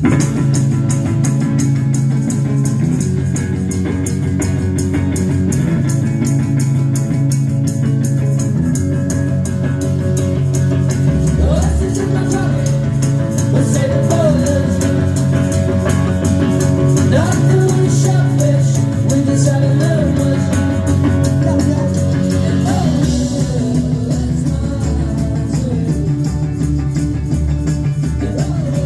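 Live rock band playing a song: electric guitars, bass and drum kit with a steady beat, with singing.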